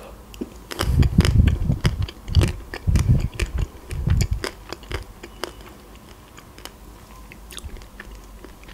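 Close-miked mouth sounds of eating a chocolate-coated ice cream bar: chewing with many small clicks and crackles. The heavier chewing falls in the first four seconds or so, then only lighter clicks.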